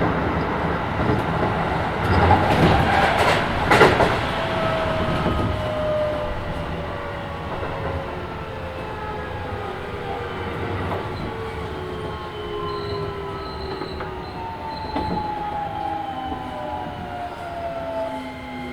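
Keisei 3000 series electric train with Toyo IGBT VVVF inverter, heard from inside the car: wheels rumbling on the rails with loud knocks about two and four seconds in. The inverter and traction motor whine then falls steadily in pitch as the train slows.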